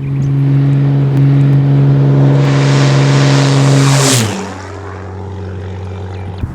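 Cessna 210M Centurion's six-cylinder engine and propeller passing close by: a steady, loud drone that builds, then drops sharply in pitch about four seconds in as the aircraft goes past, and runs on quieter.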